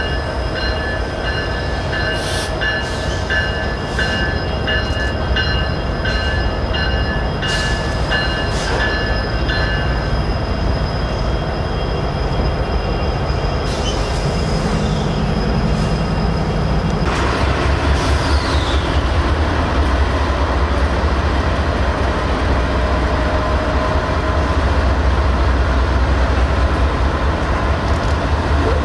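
Diesel-powered freight train approaching on the far track: a steady deep rumble that grows louder from about halfway through. High-pitched steel wheel squeal with sharp clicks runs for the first ten seconds or so, and a brief falling squeal comes shortly after the rumble swells.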